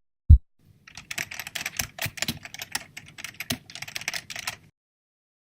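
A single low heartbeat-like thump, then rapid typing on a computer keyboard, a dense run of key clicks lasting about four seconds that stops abruptly.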